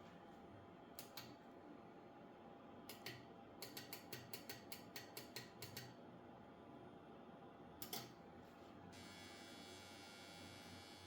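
Faint, sharp clicks over a low steady hum, with a quick run of about a dozen clicks in the middle. Near the end a faint high electrical whine starts and holds.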